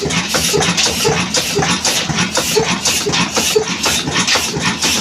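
Old Ruston Hornsby diesel engine running, with a loud, fast, even knocking rhythm.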